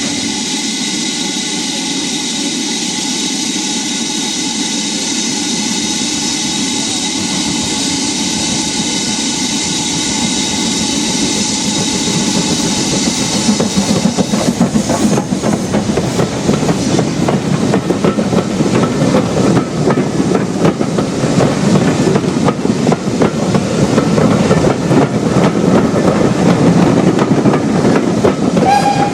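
Steam-hauled train passing: a steady noise at first, then from about halfway a fast clatter of wheels over rail joints that grows louder.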